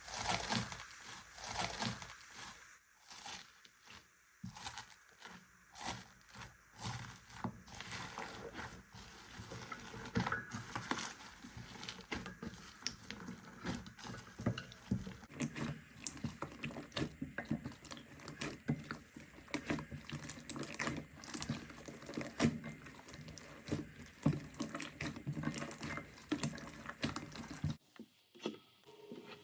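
Slime being worked, making a run of irregular wet, sticky clicks and pops; the texture turns denser and fuller about halfway through.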